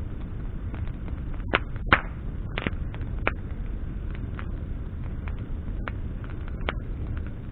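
Wood campfire crackling, with sharp pops and snaps of burning branches, the loudest about two seconds in and a few more spread through, over a steady low rumble.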